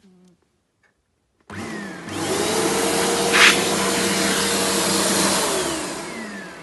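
Turbomax upright vacuum cleaner switched on about a second and a half in: the motor spins up with a rising whine, runs steadily for a few seconds with a brief louder hiss partway through, then is switched off and winds down with a falling whine near the end.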